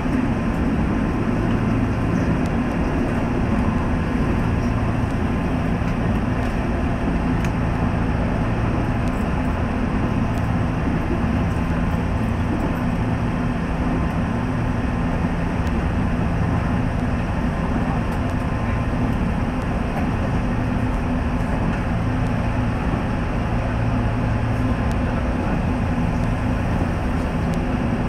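Nishitetsu local electric train running at speed, heard from inside the front car: a steady rumble of the running gear on the rails with a low, even hum.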